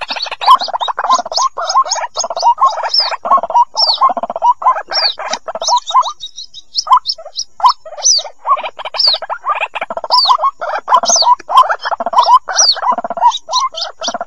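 White-breasted waterhen chicks calling: a dense run of short raspy notes mixed with high, falling peeps, with a brief lull about halfway through.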